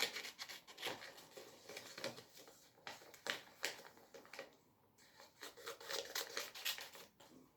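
Scissors cutting paper: a run of irregular snips mixed with paper rustling, with a brief pause a little past the middle.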